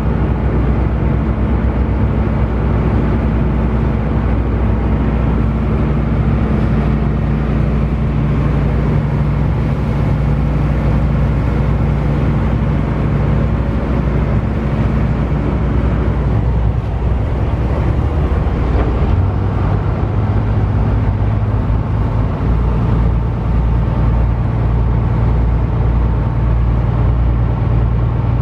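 Small passenger ferry's diesel engine running under way, a steady low drone with water and wind noise; the engine note shifts about two-thirds of the way through.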